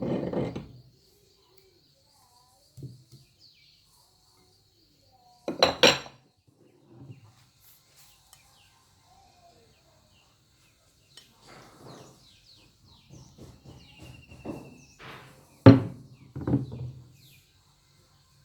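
Kitchenware clattering and clinking in scattered handling knocks, with two louder sharp clatters about six seconds in and near the end.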